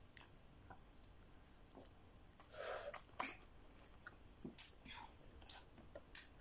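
Soft eating sounds of a person chewing french fries: faint mouth clicks and smacks, with a short breathy puff about two and a half seconds in.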